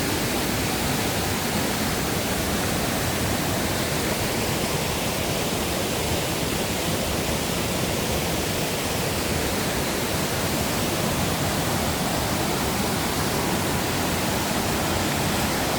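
Mountain valley stream water cascading and falling over rocks, a steady, even rush of water.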